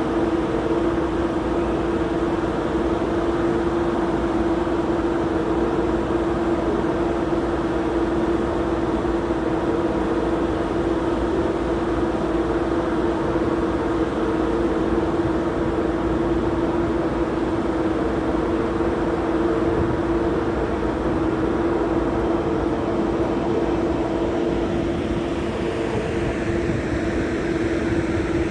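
An ICE train's electric machinery humming steadily at the platform, two constant tones over a steady rush of noise, with no change in pitch.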